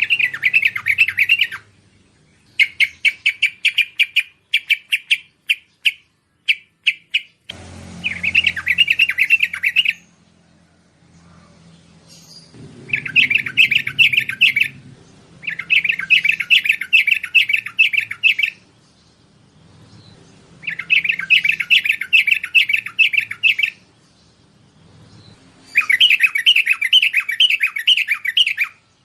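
Bulbul (merbah) song used as a lure call for wild bulbuls: phrases of rapid chattering notes, each one to three seconds long, repeated with short pauses between them. Near the start a looser run of short, separate notes comes before the full phrases.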